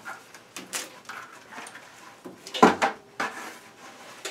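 Scattered knocks and clicks of handling at a washing machine, with one louder sharp knock about two and a half seconds in.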